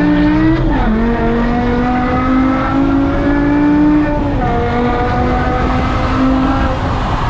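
2006 BMW M5's V10 engine with a custom Eisenmann exhaust, pulling hard under acceleration. Its pitch drops sharply less than a second in, as the SMG gearbox upshifts, then climbs steadily again. It dips a little past four seconds in and holds roughly steady after that.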